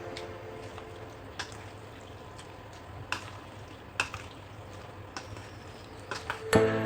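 A few scattered light clicks and taps over a faint hiss, with background music fading out at the start and coming back in near the end.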